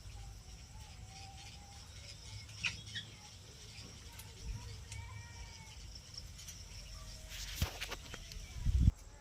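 Pet parrot making faint, short chirps and soft calls, with a few clicks, a sharp knock about seven and a half seconds in and a low thump just before the end.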